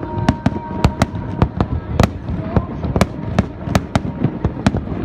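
Aerial fireworks display, a rapid irregular volley of sharp bangs and crackles, several reports a second.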